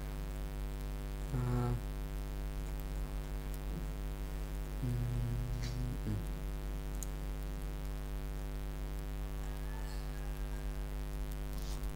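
Steady electrical mains hum, with two brief low murmurs from a person's voice about a second and a half in and again near the middle.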